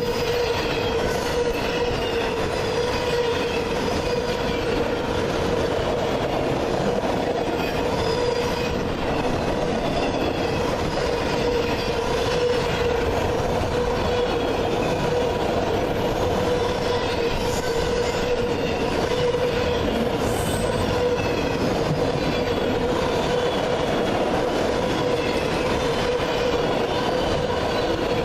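Freight cars of a long freight train rolling past at about 40 mph: steady rumble and clatter of wheels on rail, with a steady droning tone underneath and many short, falling squeals from the wheels.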